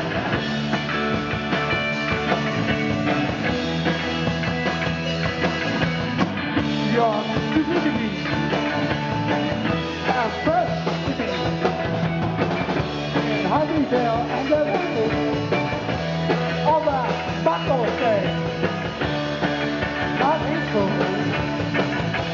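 Rock band playing live with drums, bass and guitar, a lead line of short bending, gliding notes coming in about seven seconds in.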